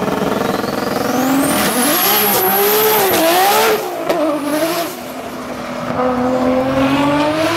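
High-performance car engine revving, its pitch rising and falling several times as it accelerates. For the first few seconds a thin high whine climbs and holds above it, then cuts off. The engine drops back around the middle and builds again near the end.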